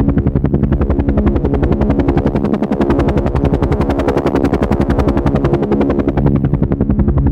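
Helicopter in flight: rotor blades chopping in a fast, even beat over a steady engine hum.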